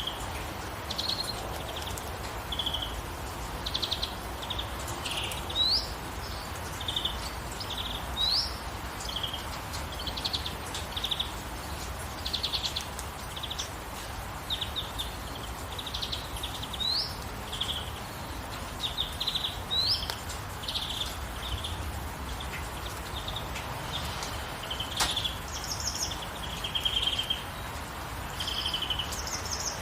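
Songbirds chirping and trilling in short repeated phrases, with a few quick upward-sweeping whistles, over a steady hiss of falling rain.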